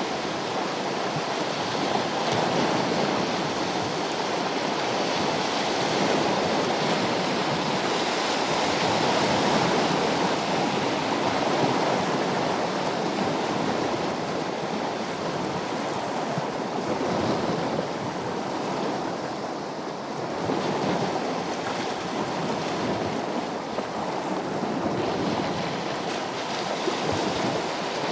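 Sea waves washing in, a continuous rushing of water that swells and eases every few seconds.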